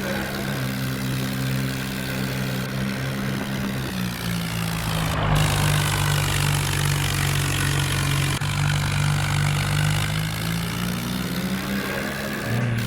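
Swaraj tractor's diesel engine running steadily. Its pitch drops about four seconds in and rises again near the end.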